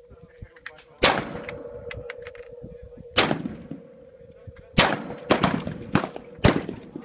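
Semi-automatic 5.56 AR-15 rifle with a muzzle brake firing five loud, sharp shots, each trailing a short echo. The first shots come about two seconds apart, then they come quicker near the end.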